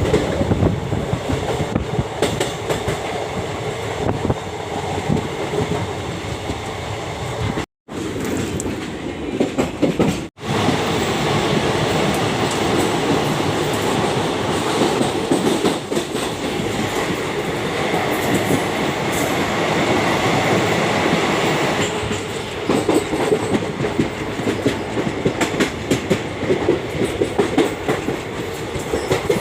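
A train running along the track, its wheels clattering over the rail joints in a steady rattle with a constant rumble underneath. The sound cuts out abruptly twice, for a moment each time, a little under a third of the way through.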